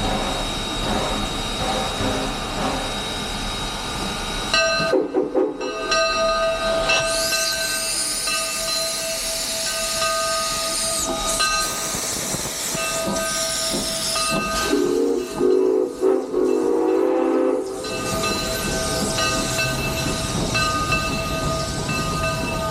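Steam locomotive, an H.K. Porter 0-6-0T switcher, blowing its whistle twice, about five seconds in and again about fifteen seconds in, the second blast about two and a half seconds long. Steam hisses loudly between the two blasts.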